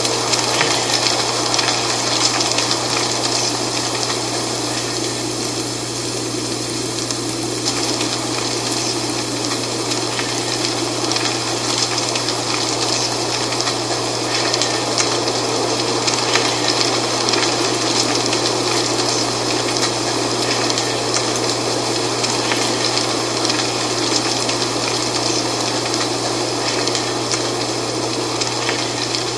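Dry fall leaves rustling in the wind: a steady wash of noise full of small crackles, with a constant low hum underneath.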